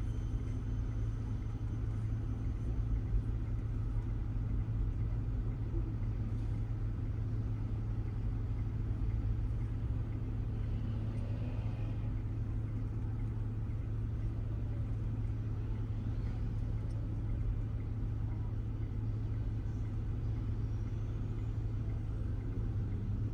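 Car driving on city streets: steady low road and engine rumble.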